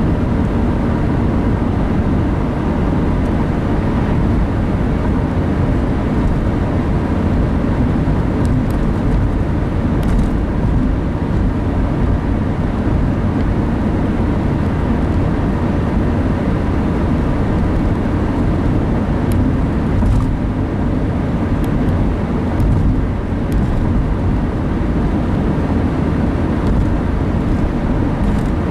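Car driving at road speed, heard from inside the cabin: a steady rumble of engine and tyre noise.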